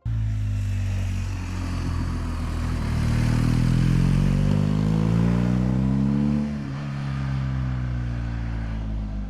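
Motorcycle engine accelerating: its pitch climbs for a few seconds, drops sharply at a gear change about six and a half seconds in, then runs on steadily.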